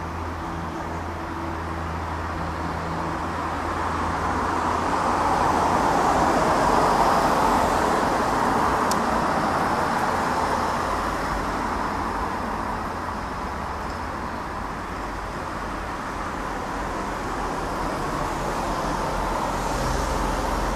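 Boeing 767 airliner's jet engines heard from the ground as a steady rushing rumble, swelling to its loudest about a quarter of the way in and then slowly fading.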